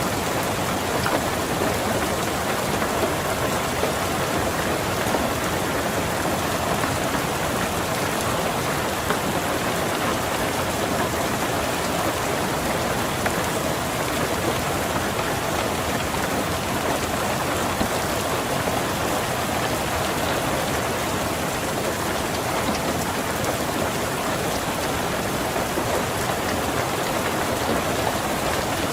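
Steady rain falling on a car, many drops hitting the roof and windows at an even, unbroken rate.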